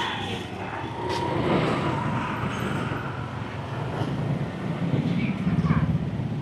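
Busy street traffic: scooter and car engines running steadily at close range.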